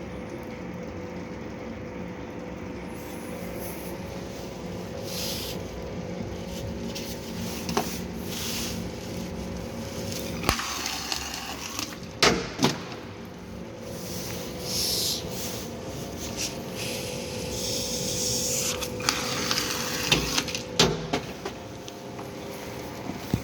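Cardboard slitter running: a steady motor hum with a fixed tone, broken by intermittent hissing scrapes and several sharp clacks, the sound of board passing through the slitter.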